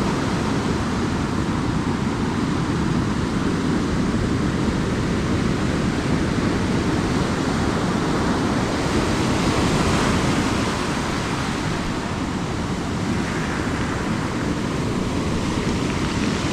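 Ocean surf breaking and washing up a beach: a steady rushing noise that swells about ten seconds in, then eases slightly.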